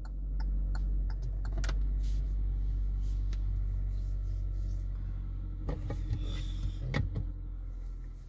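2020 Kia Rio S hazard-light flasher ticking in a steady rhythm, about three clicks a second, over a steady low hum in the cabin. A few louder knocks come near the end.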